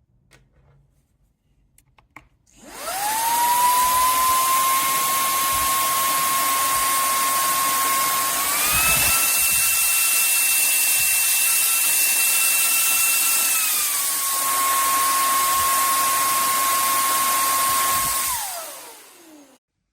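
Cordless handheld vacuum cleaner switched on, its motor spinning up to a steady high whine over rushing air. The whine steps up in pitch about six seconds later and drops back about five seconds after that. Near the end it is switched off and winds down with a falling whine.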